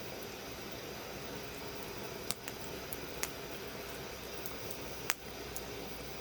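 Wood fire burning in a fire pit: a steady hiss with a few sharp crackling pops, the loudest about five seconds in.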